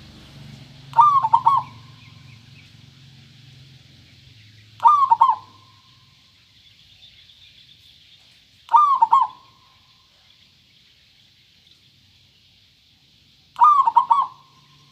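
Zebra dove (perkutut) cooing its song four times, each a short phrase of a few quick notes, repeated about every four seconds.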